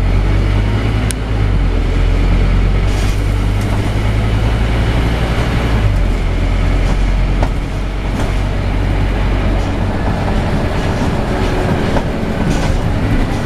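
Scania N270UD Omnidekka double-decker bus running with a loud, steady low engine drone. The drone shifts pitch about one and a half seconds in and again about six seconds in, with a few sharp clicks or rattles over it.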